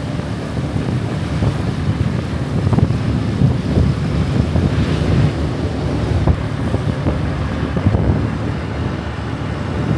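Wind buffeting the microphone on a moving Honda Scoopy scooter: a steady rumbling noise, with the scooter's engine and road noise underneath.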